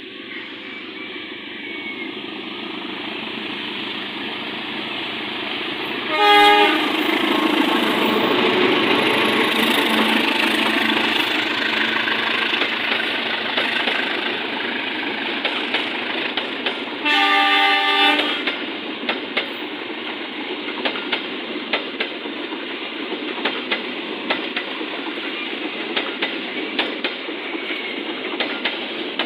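A train approaching and passing, its locomotive horn sounding two blasts, a short one about six seconds in and a longer one about seventeen seconds in. After the second blast the wheels click steadily over the rail joints as the cars go by.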